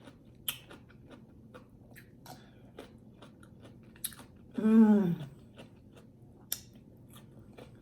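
A person chewing food, with many small wet mouth clicks. A little past halfway comes one short hummed "mmm" that falls in pitch.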